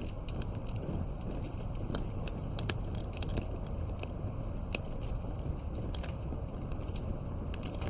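Campfire burning, with frequent irregular crackles and pops from the wood over a steady low rumble of the flames.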